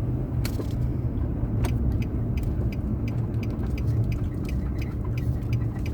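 Car engine and road rumble heard from inside the cabin, with a run of light, evenly spaced ticks, about three a second.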